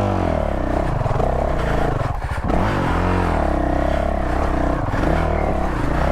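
Honda CRF450L's single-cylinder four-stroke engine revving under load on a steep hill climb, its pitch rising and falling with repeated bursts of throttle. There is a brief dip with a clatter about two seconds in.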